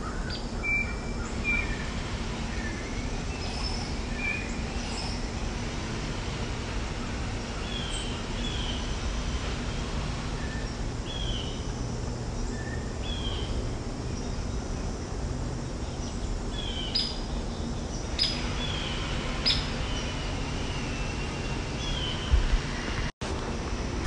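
Songbirds in spring chirping and singing: short whistled notes and chirps from several birds, scattered throughout over a steady low background noise. A few knocks come near the end.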